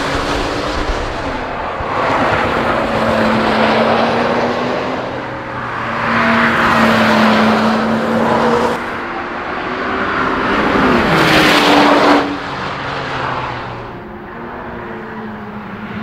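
Camouflaged Acura NSX prototype's twin-turbo V6 driven hard, its engine note rising and falling through gear changes as the car passes and pulls away. Loudest about halfway through, it drops away suddenly after about twelve seconds.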